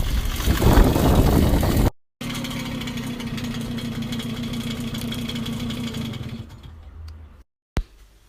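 Babetta moped's small two-stroke engine running: a loud, rough stretch, then after a brief break a steadier engine note that fades away about six and a half seconds in. A single sharp click comes near the end.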